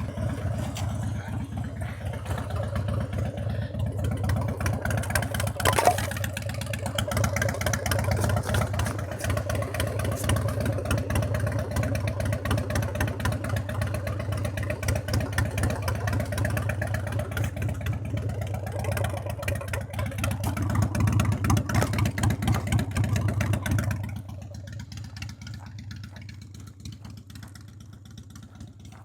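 Motorcycle engine running steadily, a little louder shortly before it drops off sharply about 24 seconds in, leaving a much quieter background.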